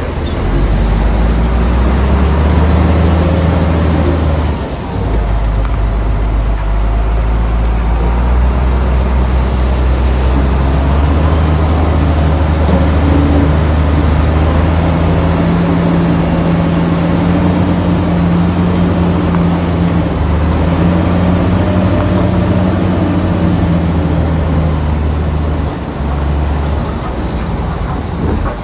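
Heavy diesel engine of earthmoving machinery running loudly and steadily, its deep rumble shifting in pitch as it works, with a brief drop about five seconds in.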